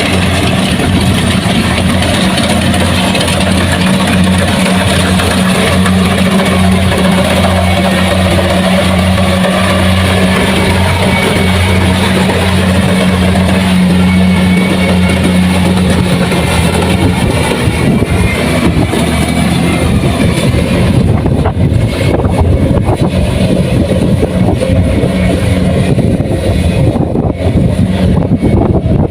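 Diesel engine of a Kubota rice combine harvester running steadily under load with an even hum. A bit over halfway through, the hum gives way to a rougher, rushing noise.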